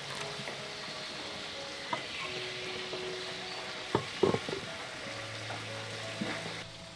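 Food sizzling as it fries in a pan while being stirred, with a few sharp clacks of the utensil against the pan; the loudest clacks come about four seconds in.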